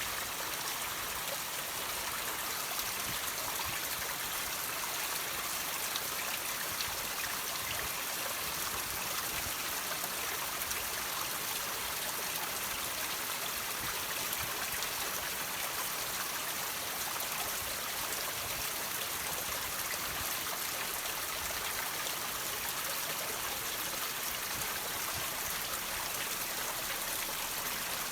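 Water dripping and trickling off rocks: a steady, even splashing hiss made of many small droplets, with no pauses or changes.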